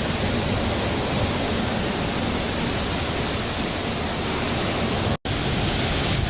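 Steady, loud rush of hurricane-force wind over the microphone, with the sea beneath it. It cuts out for an instant about five seconds in, and the same kind of wind and sea noise carries on after.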